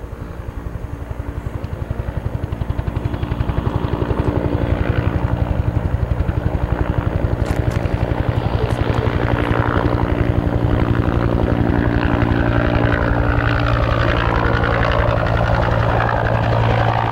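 California Department of Forestry firefighting helicopter approaching, its rotor beating in fast even pulses over the engine, growing louder over the first few seconds and then holding steady close by.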